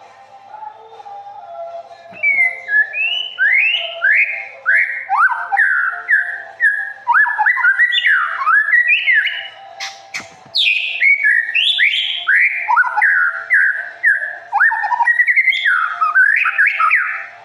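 A songbird singing a fast, varied run of whistled phrases: quick rising and falling notes, one after another, with a steady faint tone beneath. There is one sharp click about midway.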